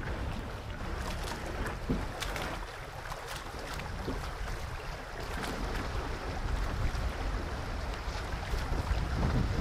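Canoe being paddled, with paddle strokes and water splashing against the hull, over a steady low rumble of wind on the microphone.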